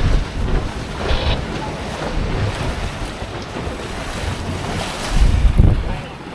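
Wind buffeting the microphone in a southerly of about 15 knots, an uneven low rumble that gusts hardest at the very start and again about five seconds in.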